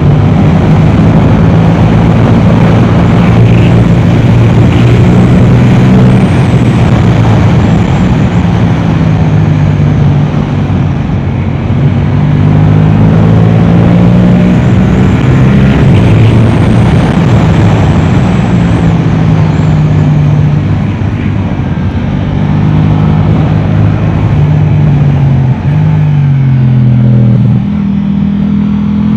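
Yamaha R7's 689 cc parallel-twin engine through an Akrapovic exhaust, revving hard and repeatedly climbing in pitch and dropping back as it changes gear and slows for corners. A constant rushing noise runs underneath.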